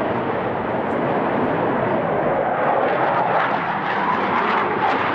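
Saab J35 Draken jet fighter flying past, its afterburning turbojet making a steady rushing jet noise that grows slightly stronger in the second half.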